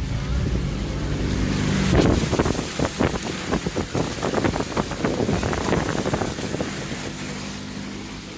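A car driving through standing floodwater: water surging and splashing against the wheels and underbody over the engine's low hum. The splashing is loudest about two seconds in and eases off near the end.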